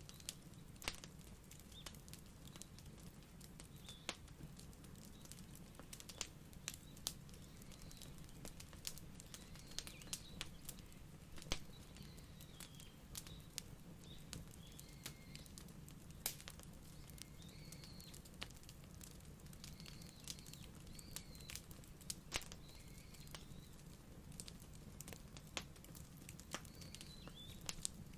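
Wood fire crackling: irregular sharp pops and snaps over a steady low rumble. Faint, short high chirps come in from about a third of the way through.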